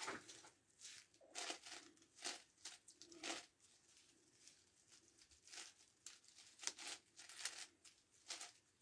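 Irregular plastic clicks and scrapes of a 9x9x9 Rubik's Cube's layers being turned by hand.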